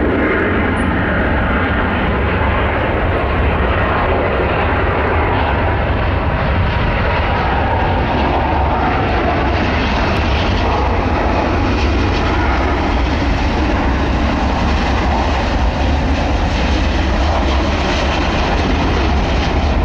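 Twin-engine Boeing 777 jet on its landing approach: a steady, loud rumble of engine and airflow noise with a deep low end, its hiss growing a little brighter about ten seconds in.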